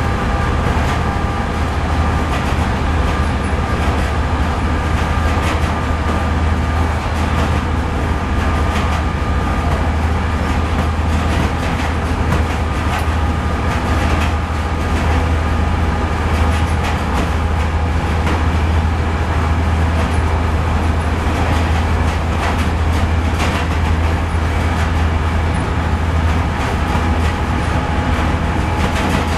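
Passenger train hauled by a diesel locomotive, heard from inside a coach at speed: a steady low rumble of wheels on rail with light, irregular clicks.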